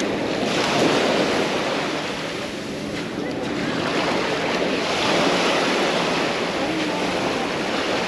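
Small sea waves breaking and washing up on a sandy beach, the surf swelling twice.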